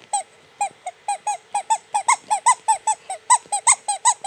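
Squeaky toy horn squeezed over and over: a run of about twenty short, high squeaks, getting faster and louder toward the end.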